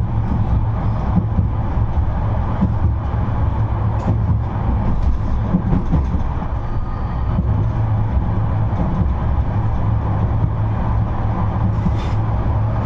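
71-628-02 tram running between stops: a steady low rumble of wheels on rails and running gear, with a couple of faint clicks about four seconds in and near the end.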